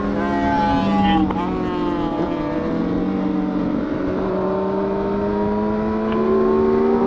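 Honda CBR1000RR (SC57) inline-four engine running under way. The revs dip briefly about a second in, then climb steadily as the bike pulls.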